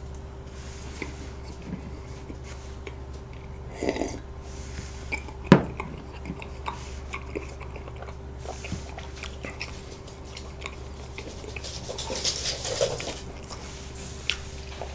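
Close-miked chewing of soft soboro (streusel-topped) bread: small wet mouth clicks and smacks over a steady low hum, with one sharp click about five and a half seconds in.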